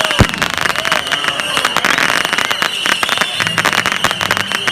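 Fireworks display: dense, rapid crackling from crackle-effect fireworks, with one low thump of a burst about a quarter second in.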